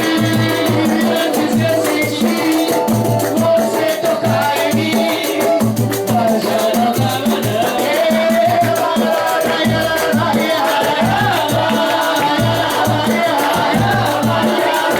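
Live samba music: a band playing a steady rhythm with a pulsing bass and percussion, a melody line running over it.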